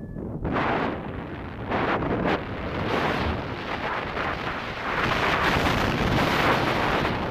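Strong wind rushing over the microphone of a paraglider in flight, a loud noise that surges in gusts and grows stronger toward the end.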